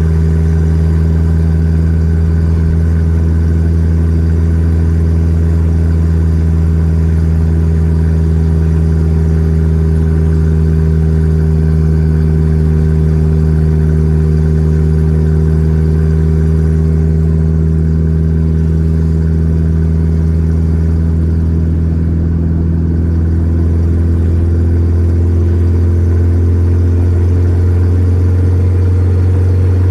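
Volkswagen Gol G4 Rallye's engine running steadily under way, its pitch easing slightly through the middle and rising again near the end.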